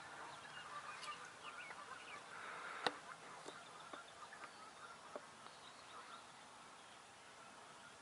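Faint turkey clucks and yelps among scattered short bird chirps, with one sharp click about three seconds in.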